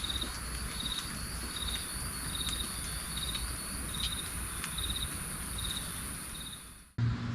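Night insects calling: a steady high-pitched buzz, with a short pulsed chirp repeating roughly every 0.8 seconds. Both cut off just before the end.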